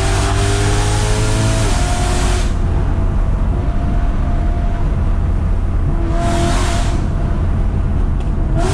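BMW E92 M3's V8 accelerating hard with rising pitch, then dropping sharply at an upshift from third to fourth gear a little under two seconds in. It then runs more steadily, with a short louder surge around six seconds in and the revs climbing again near the end.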